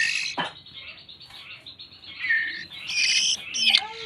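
Pet white-rumped shama (murai batu) calling: after a short lull, several quick bursts of high chirps and whistles in the second half.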